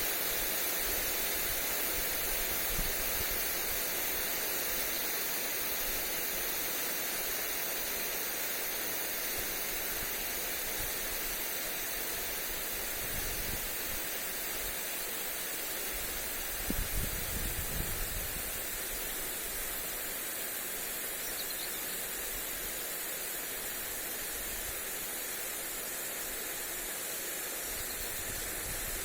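Garden sprinkler spraying water onto a lawn: a steady, even hiss of falling water. A brief low rumble of wind on the microphone comes about two thirds of the way through.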